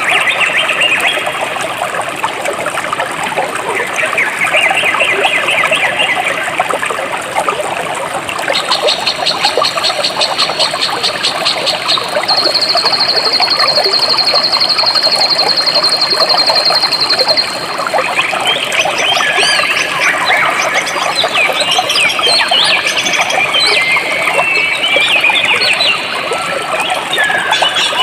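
A jungle stream flowing steadily, with birds chirping. A rapid, high trill holds for several seconds from about a third of the way in, and quick sweeping bird calls come more often in the second half.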